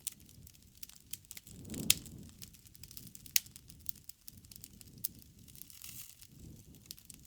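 Campfire (wood fire) crackling: irregular sharp pops and snaps over a low rumble of burning, with the loudest pops about two seconds in and again a second and a half later.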